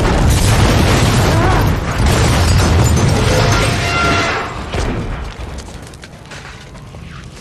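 Film sound effects of a violent vehicle crash: a loud, rumbling boom with crashing noise that dies away about four and a half seconds in, leaving scattered clatter.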